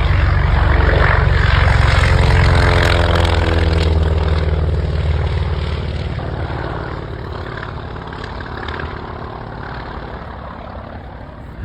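Radial-engine propeller warbird passing at high power, its engine pitch falling as it goes by, then fading steadily as it climbs away.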